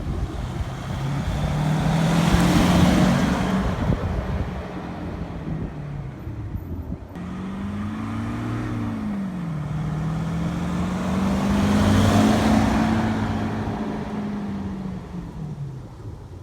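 VW Amarok 2.0 BiTDI driving past twice, its Kufatec Sound Booster Pro playing a synthetic V8 exhaust note over the diesel engine. Each pass swells and fades, and the note rises and falls in pitch with the revs.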